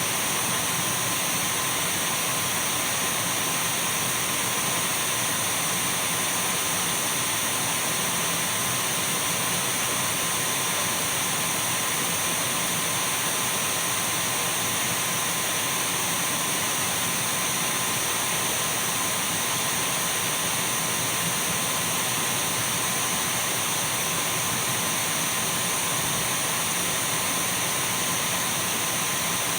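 Dyson V12 cordless stick vacuum cleaner running steadily: an even rush of air with a constant high-pitched whine, unchanging throughout.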